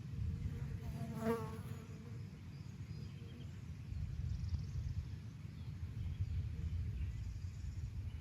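A flying insect buzzing briefly past, about a second in, over a steady low rumble.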